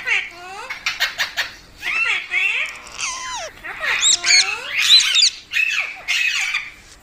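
Pet parrot squawking in a rapid run of harsh calls that sweep up and down in pitch, loudest about four to five seconds in.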